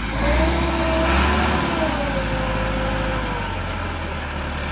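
Heavy farm-machinery engine running hard, with a whine that rises and then falls back in pitch over about three seconds as the engine revs up and eases off.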